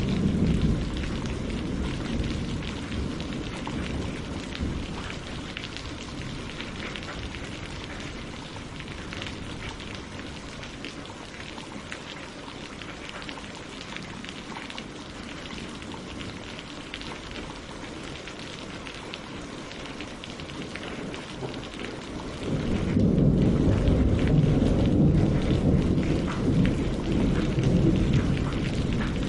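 Steady rain falling on leaves and lake water, with fine pattering throughout. A low rumble of thunder fades away over the first few seconds, and another rolls in loudly about three-quarters of the way through.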